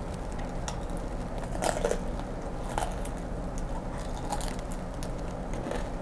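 Crisp, irregular crunches of a person biting and chewing a deep-fried grasshopper, its fried shell and legs cracking between the teeth about once a second.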